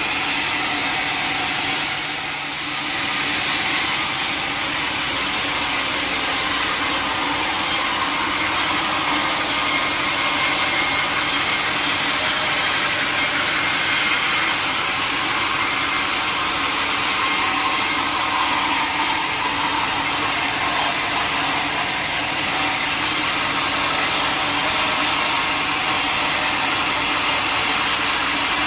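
Sawmill blade cutting lengthwise through a large mahogany log, a steady, continuous sawing noise with a brief dip about two seconds in.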